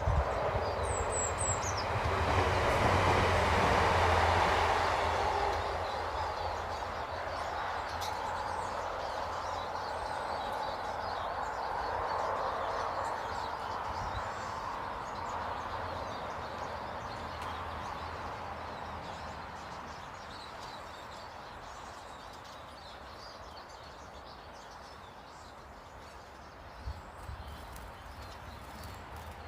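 A broad rushing rumble swells over the first few seconds and then slowly fades away over the next twenty or so, like a large vehicle or aircraft passing in the distance. A bird gives a brief high chirp about a second in.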